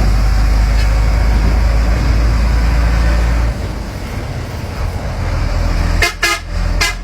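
Sinotruk heavy truck's diesel engine running with a heavy low rumble, which drops about halfway through as the truck changes gear. Near the end, a vehicle horn gives several short toots.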